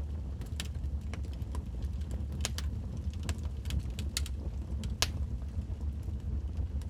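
Wood fire crackling: burning logs giving off irregular sharp pops and snaps over a steady low rumble, with one louder pop about five seconds in.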